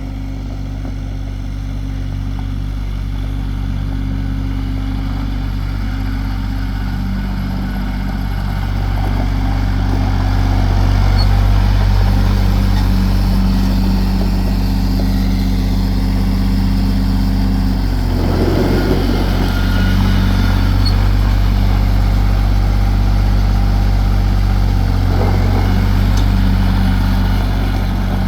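John Deere 850 compact tractor's three-cylinder diesel engine running steadily, getting somewhat louder about ten seconds in, with a brief rougher, noisier stretch a little past halfway.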